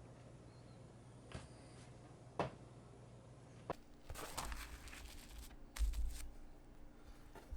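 Handling of craft materials: a few small clicks and taps, then from about halfway rustling and crinkling, like paper or fabric being handled, with a couple of soft thumps.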